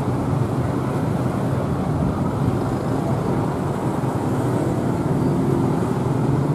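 Steady rumble of a passenger train running along the track, with a low engine hum underneath.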